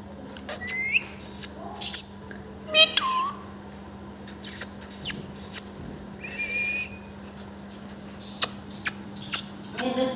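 Parrot calling in a run of short, sharp squawks and chirps with quick pitch sweeps, and one held whistled note about six seconds in.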